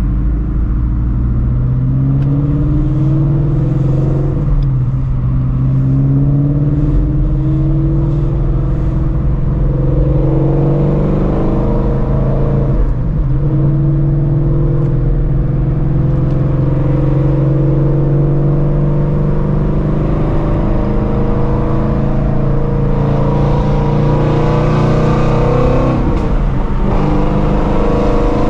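Ford Shelby GT350's 5.2-litre flat-plane-crank V8, fitted with long-tube headers, pulling steadily while under way. Its pitch climbs slowly and drops back at gear changes, about 5, 13 and 26 seconds in.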